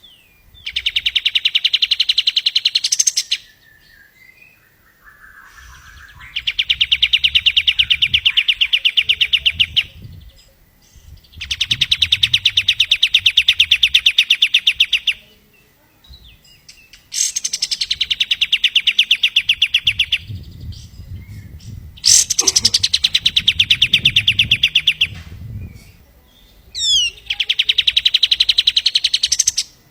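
Kapas tembak songbird singing its rapid rattling trill: six bursts of about three seconds each, every one a very fast run of identical notes, with pauses of a second or two between them.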